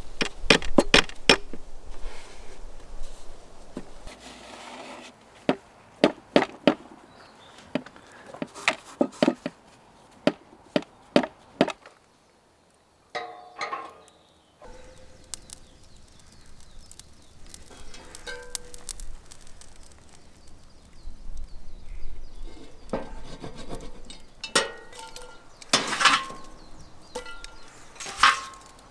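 Repeated sharp knocks, like chopping or splitting with a blade or tool on wood, coming in quick groups of several strikes. After a short pause, scattered lighter knocks and a few ringing clinks follow.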